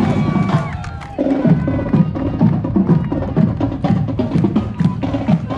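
Marching band drumline playing a steady drum cadence, with a brief drop about a second in before the drums come back in.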